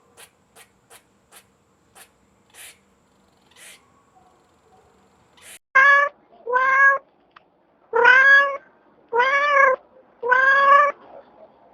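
A cat meowing five times in a row, each meow loud and drawn out, after several faint ticks in the first half.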